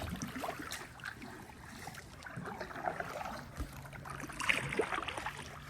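Kayak paddle dipping into the water, with small splashes and trickling drips, and a fuller splash about four and a half seconds in.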